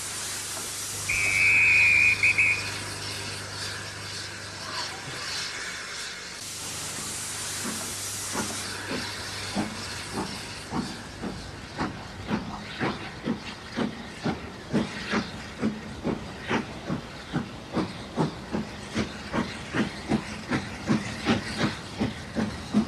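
Sound of a model T9 class steam locomotive pulling away: steam hiss, a short whistle about a second in, then exhaust chuffs that begin about nine seconds in and settle to a steady beat of roughly two a second.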